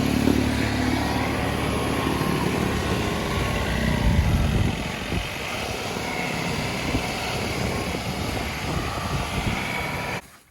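John Deere 2038R compact tractor's diesel engine running, louder for the first few seconds and easing off a little about halfway, then cutting off suddenly near the end.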